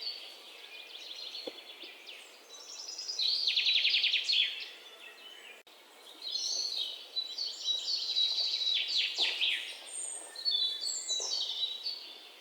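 Birds chirping, whistling and trilling in quick runs of high notes, some stepping down in pitch, with a short lull about halfway through.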